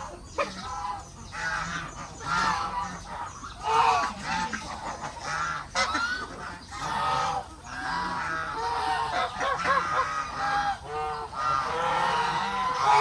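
A flock of farm geese honking over one another, with calls following each other closely, and a few short clicks among them.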